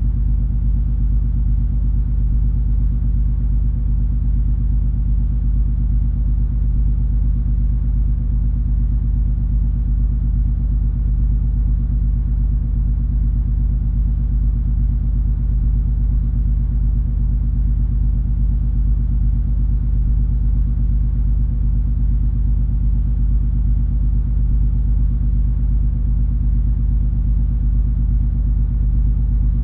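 Cruise ferry MS Color Magic under way, its engines and hull giving a steady deep drone with a few held low tones. The drone stays the same throughout.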